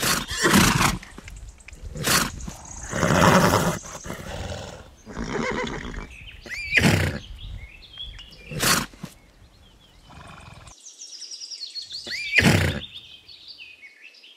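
Horses neighing and whinnying in a series of separate calls, several of them with a downward-bending pitch.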